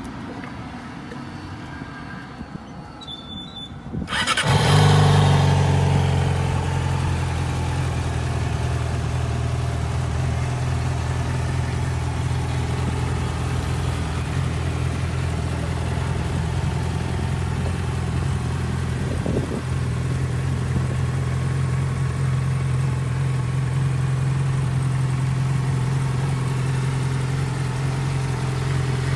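A 2009 Yamaha YZF-R6's inline-four engine fires up about four seconds in, with a brief rise in revs that is the loudest moment, then settles to a steady idle.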